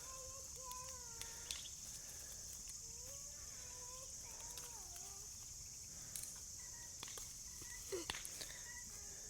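Quiet farmyard ambience: poultry giving soft, wavering clucking calls several times over a steady high hiss, with a few faint knocks of hand tools in the soil.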